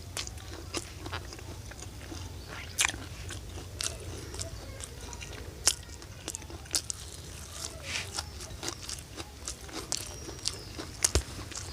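Close-miked eating: a person biting and chewing crunchy food, with irregular sharp crunches and wet mouth clicks. A few louder crunches stand out, about three seconds in, near six and seven seconds, and near the end.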